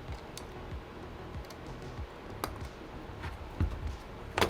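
A handful of separate light clicks and taps of small hard objects being handled on a laptop repair bench, the loudest near the end.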